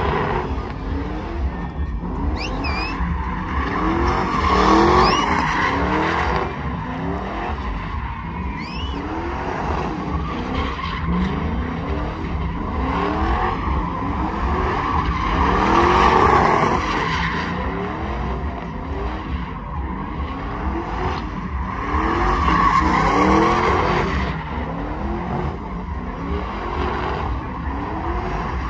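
Truck engine revving hard over and over, its pitch sweeping up again and again, while the rear tyres spin and squeal without a break in a burnout, swelling louder a few times.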